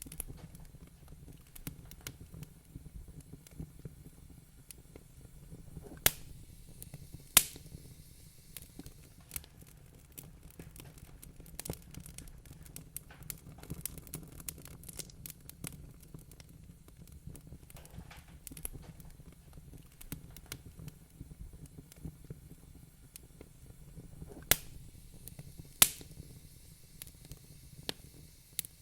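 Wood fire crackling in a fireplace: a steady run of small ticks and snaps over a low rumble, with four sharp louder pops, two about six and seven seconds in and two near the end.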